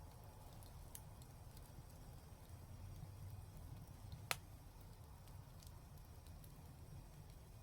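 Fireplace fire crackling faintly over a steady low rumble, with scattered soft ticks and one sharp pop a little past halfway.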